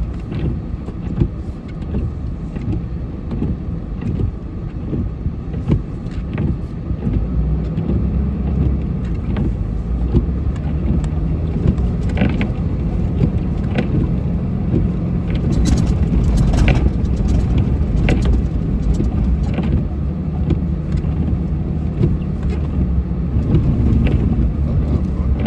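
Snowplow truck's engine running under load while the plow pushes snow, with scattered knocks and scrapes. The engine grows louder about a third of the way in.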